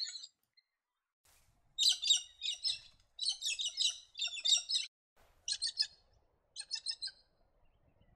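Galahs calling: bouts of rapid, high, chattering notes, the first two bouts longer, then two short bursts.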